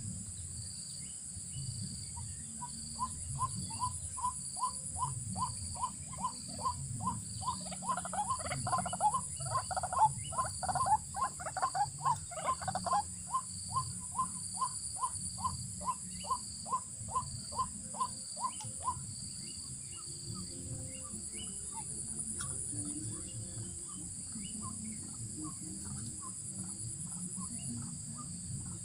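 White-breasted waterhen calls: a long, rhythmic run of hoarse notes, about three a second, that swells into a louder, denser stretch in the middle and stops about two-thirds of the way in. A steady high insect buzz runs underneath.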